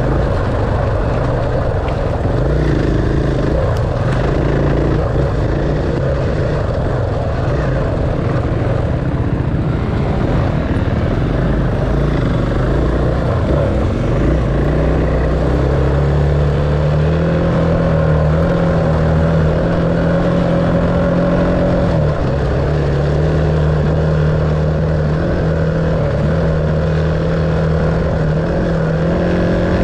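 Dirt bike engine running continuously under riding, its note holding steady and shifting up and down a few times with the throttle.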